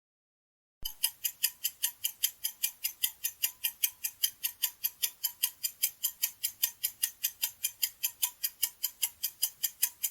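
Clock ticking sound effect used as a quiz countdown timer: sharp, even ticks about four a second, starting about a second in.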